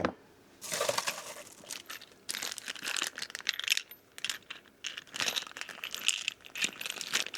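Rummaging through small screws and lock parts to find the right screw: irregular light metallic clinks and rustling.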